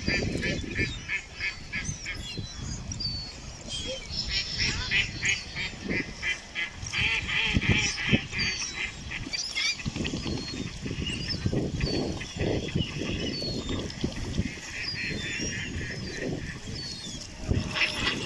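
A flock of ducks calling in runs of rapid quacks, each run lasting a second or two, with short higher chirps scattered between them and low rumbling knocks underneath.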